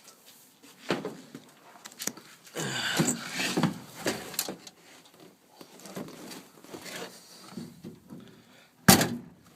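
Handling noises with no engine running: scattered knocks and rustling, a louder scraping stretch a few seconds in, and one sharp, loud knock near the end.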